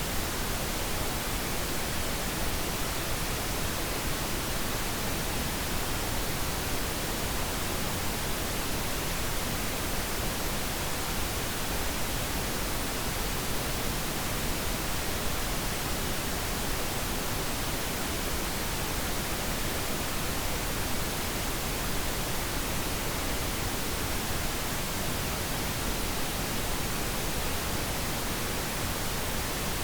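Steady pink noise, an even hiss that never changes, played as a sleep aid.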